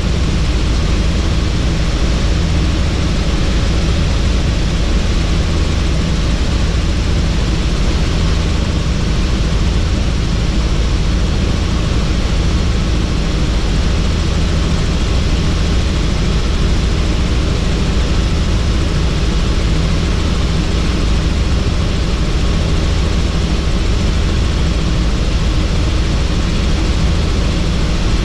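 Helicopter in flight, heard from on board with the doors off: steady, loud rotor and engine noise mixed with rushing wind.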